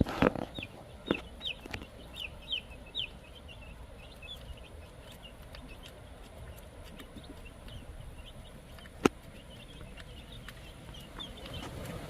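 Wyandotte chickens making a run of short, high clucking calls, busiest in the first few seconds and then scattered. There are a few knocks near the start and a single sharp click about nine seconds in.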